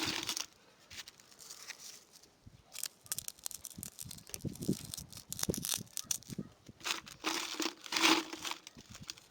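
Bricklaying work: a trowel scraping and spreading wet mortar, with irregular clicks and knocks as bricks are set into place.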